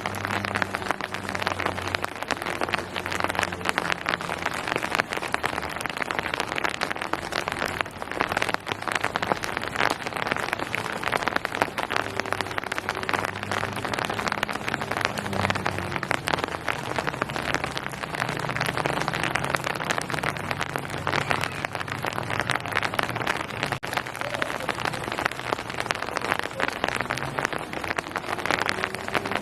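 Steady rain falling on hard surfaces: a dense, even patter of drops with a faint low hum underneath.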